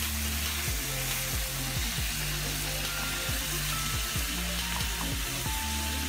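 Chicken pieces and tomatoes frying in hot oil in a metal pot, sizzling steadily as they are stirred with a wooden spatula. Low background music plays underneath.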